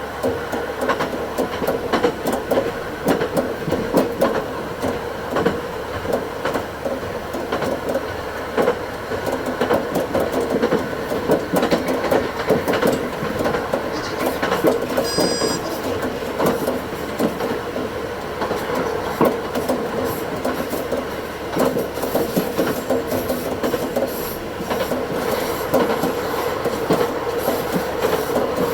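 Diesel railcar running along the line, sped up to double speed: a steady engine drone with rapid clicks of the wheels over the rails. A brief high wheel squeal comes about halfway.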